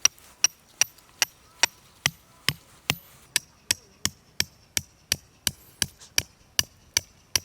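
A hand tool striking over and over at a steady pace of close to three blows a second, each blow with a short, high ring, like hammering or chopping at a campsite.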